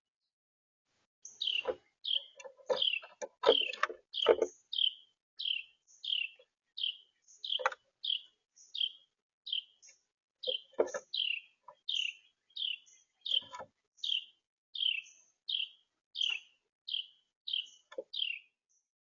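A small bird at a feeder chirping over and over, about two short, high, downward-sliding chirps a second, with occasional knocks mixed in, several of them in the first few seconds.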